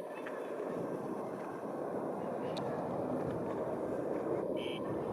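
Jet aircraft noise: a steady rushing sound that slowly grows a little louder, with a brief high chirp about halfway through.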